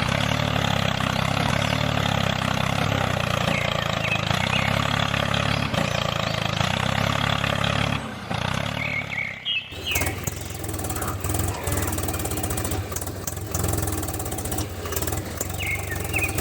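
A machine running steadily, with an even low hum. About eight to ten seconds in it dips and gives way to a rougher running sound with scattered clicks and knocks, and a couple of short high chirps.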